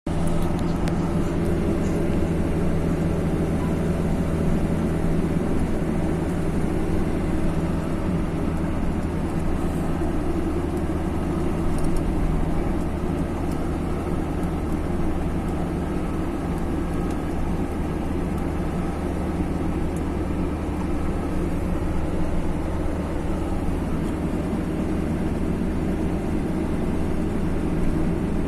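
A moving road vehicle's engine and road noise: a steady low drone that stays even throughout.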